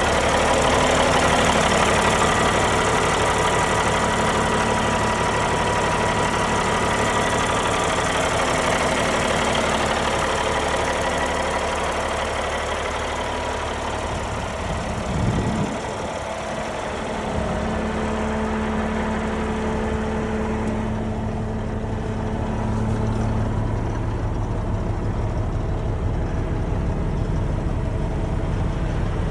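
Caterpillar 3406B inline-six diesel in a dump truck idling steadily. About halfway through there is a brief sudden sound, and in the last third the engine sounds duller, with less of its high end.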